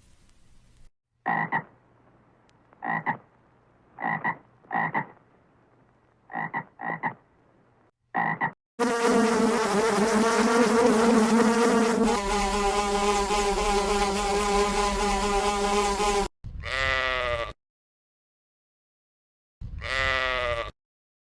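A run of animal calls: about seven short croak-like calls, then a loud, long pitched call of about seven seconds that shifts partway through, then two shorter calls that fall in pitch.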